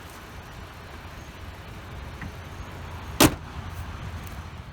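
A single loud slam about three seconds in, typical of a car's hood being shut, over a low steady rumble.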